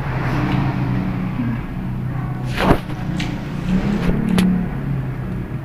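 A steady low hum, like a running motor, with one sharp knock about halfway through and a few lighter clicks near the end.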